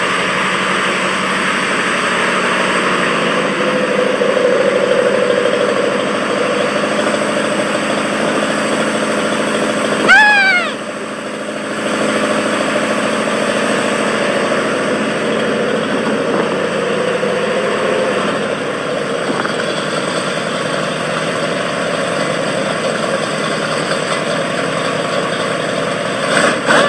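Corvette's Chevrolet V8 running loud through a freshly built dual exhaust with Flowmaster mufflers, just started after sitting for a year and a half, revving up and settling back a couple of times. A short shout cuts in about ten seconds in.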